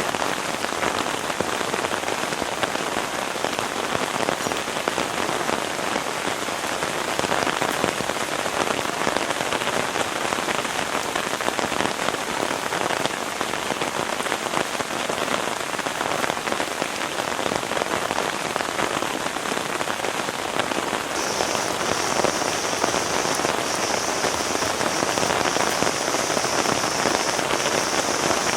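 Heavy rain falling steadily, a dense even patter. About three quarters of the way through, a steady high-pitched hiss joins it.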